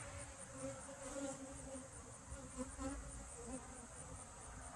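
Honeybees buzzing in flight around an opened hive: a faint hum that wavers and swells as individual bees pass close by.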